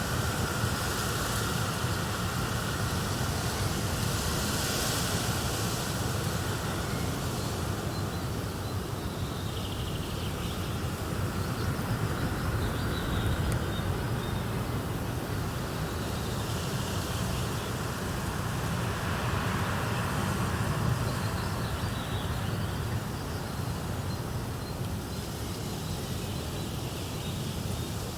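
Fireplace-and-nature ambience: a steady rumbling hiss that holds the same throughout, with faint high chirps now and then in the middle.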